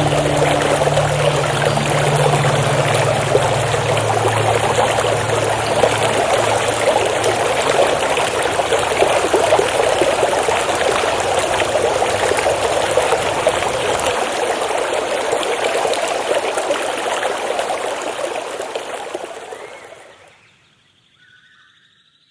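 Running stream water, a steady rushing babble, with a low held music tone underneath that dies away about two-thirds of the way through. The water fades out near the end.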